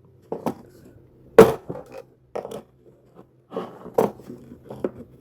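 Hands handling packaging, making a string of separate sharp knocks and clicks with short scrapes between them; the loudest knock comes about a second and a half in.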